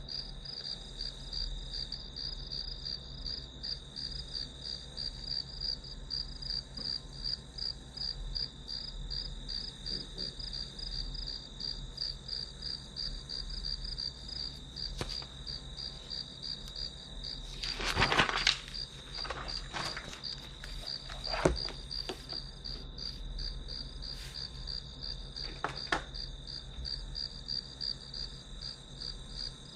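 Crickets chirping in a steady trill of rapid, even pulses. Partway through there is a brief rustle, followed by a few sharp clicks.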